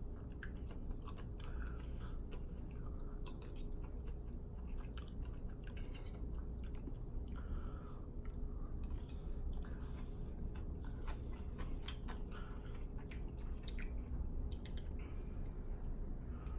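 A person chewing food close to the microphone: irregular mouth clicks and smacks over a steady low hum.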